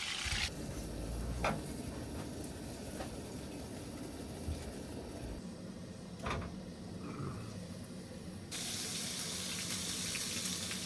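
Burger patties sizzling in a hot pan, a steady hiss with a couple of light knocks.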